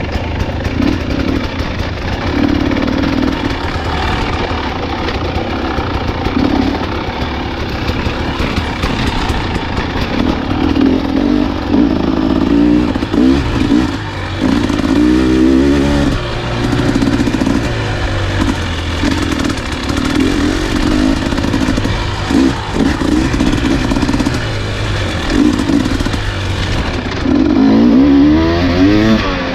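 Dirt bike engine running hard on a trail, its pitch climbing and dropping over and over with the throttle and gear changes, with a sharp rise near the end. Rattles and scrapes come through under the engine.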